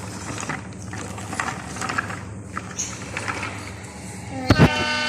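A miniature train running, with a steady motor hum and scattered clattering. Near the end comes a sharp knock, then a loud buzzy tone that cuts off abruptly.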